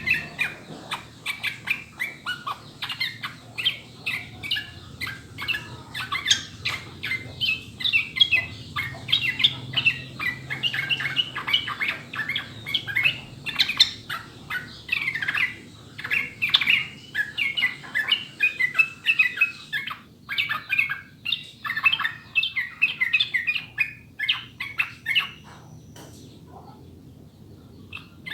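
Yellow-vented bulbul (trucukan) singing: a rapid, continuous run of bubbling, chattering notes, with a short pause near the end.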